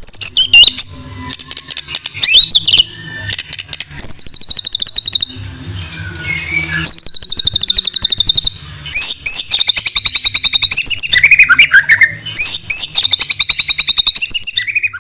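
White-rumped shama (murai batu) singing a loud, varied song: clear whistled notes that slide up and down, alternating with long runs of fast, rapidly repeated chattering notes.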